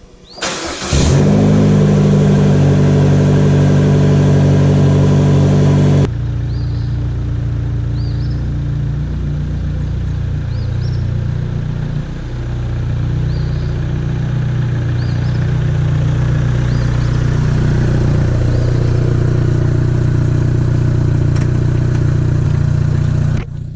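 Cold start of a 2018 Vanderhall Venice's turbocharged four-cylinder engine: brief cranking, the engine catching about a second in and running at a fast, loud idle. About six seconds in it drops suddenly to a lower, steady idle through a stock exhaust that is not too loud.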